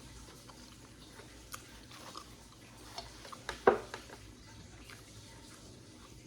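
Light clicks of cutlery on a plate while eating, with one louder knock about three and a half seconds in.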